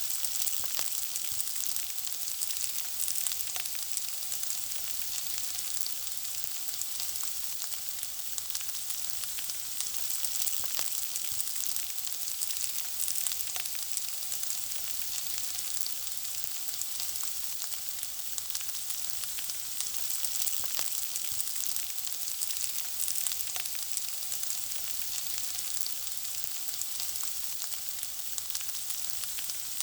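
Food frying: a steady high sizzle with many small crackles and pops scattered through it.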